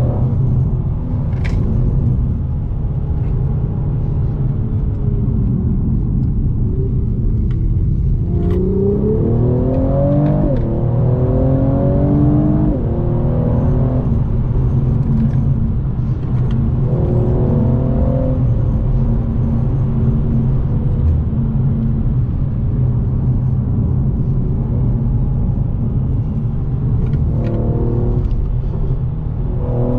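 Mercedes-AMG E43's twin-turbo V6 pulling hard through the gears, its pitch climbing and dropping back at each upshift, then easing off between bursts. A steady low road and tyre rumble runs underneath.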